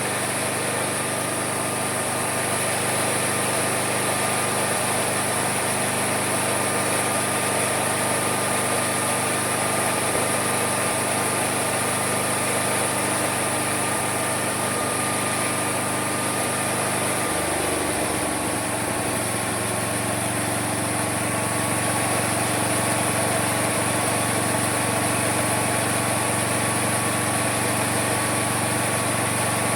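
Homemade mini sawmill running steadily with a low hum and a thin high whine. About 17 seconds in, the hum shifts and the whine drops slightly in pitch, then both hold steady again.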